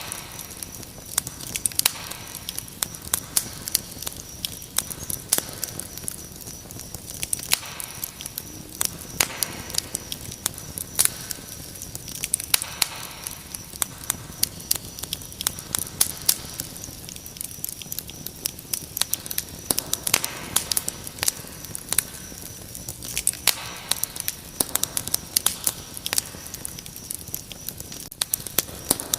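Wood fire crackling, with frequent sharp pops and snaps over a soft steady hiss, and crickets chirping in a steady high trill throughout.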